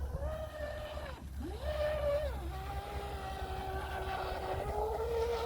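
Traxxas RC boat's electric motor whining steadily. The pitch dips and climbs back a couple of times as the throttle is eased off and opened again.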